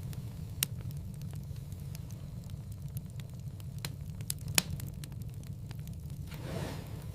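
Wood fire in a fireplace crackling, with scattered sharp pops (the loudest about four and a half seconds in) over a steady low rumble. A brief rushing hiss comes near the end.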